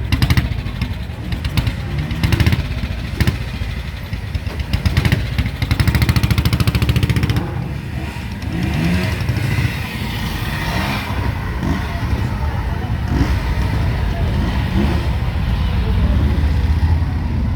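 Motorcycle engines running as a line of bikes rides past, loudest and with fast engine pulsing for the first seven seconds or so, then a steadier rumble.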